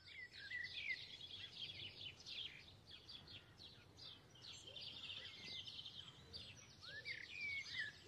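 Several songbirds singing together: a dense run of quick chirps and trills, with a few clear whistled notes that slide up and down about a second in and again near the end.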